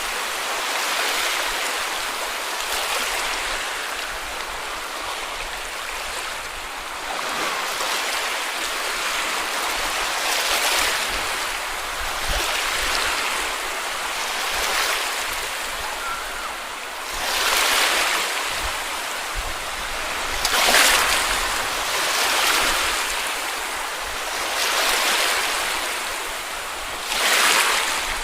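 Small sea waves breaking and washing up on a beach: a steady hiss of surf that swells with each wave every few seconds.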